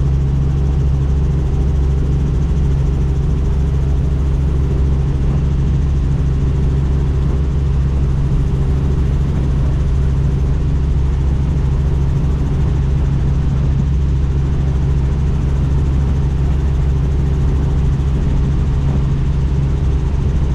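Helicopter in flight: steady rotor and engine drone, strongest in the low range, with no change in pitch or level.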